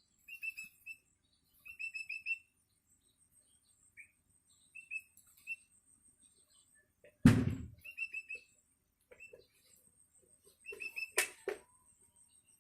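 Long-tailed shrike (cendet) chick giving short, high begging chirps in quick runs of three or four, repeated again and again: a hungry fledgling calling for its parent. A loud thump about seven seconds in and a sharp click near the end.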